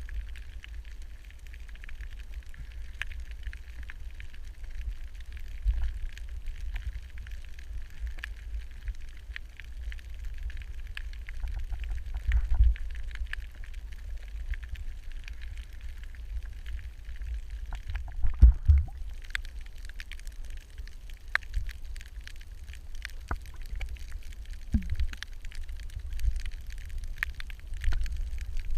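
Underwater ambience picked up by a camera's microphone: a steady low rumble of moving water with continual faint crackling and small clicks. A few louder low thumps stand out, the loudest about two-thirds of the way through.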